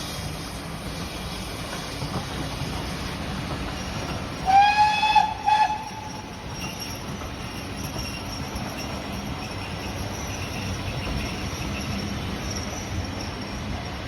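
Steam locomotive whistle sounding about four seconds in, a short call of about three quick toots lasting roughly a second and a half, over the steady rumble of a moving train. A faint high-pitched whine carries on afterwards.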